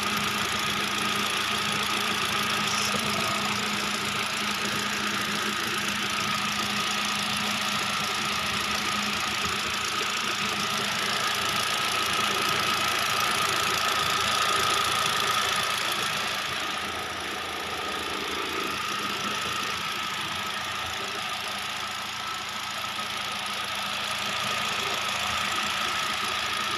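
Hyundai Accent engine idling steadily after a new ignition coil and ECM were fitted; the idle is stable and the misfire is gone.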